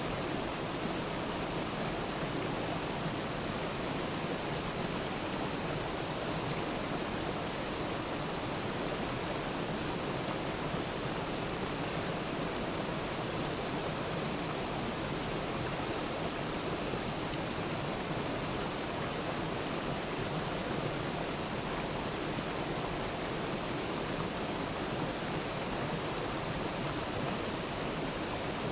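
Waterfall: water falling and splashing in a steady, even rush without change.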